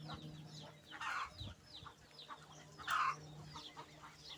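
Domestic hens clucking, with two louder clucks about a second and three seconds in, over many quick, high chirps of small birds.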